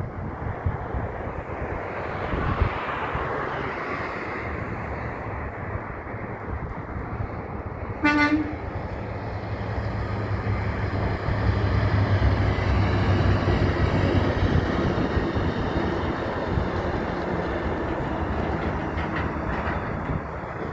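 Heavy trucks driving past with a steady rumble of engines and tyres. A single short air-horn toot sounds about eight seconds in, and the rumble swells a few seconds later as a truck passes close.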